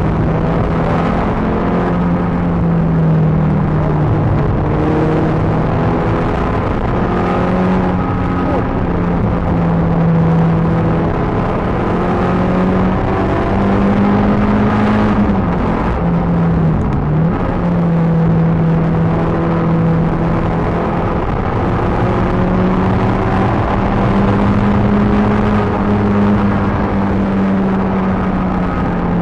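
Peugeot 306 GTi-6's four-cylinder engine running hard at high revs on track, heard from inside the car. The engine note holds fairly steady with small rises and falls, and briefly drops about sixteen seconds in before picking up again.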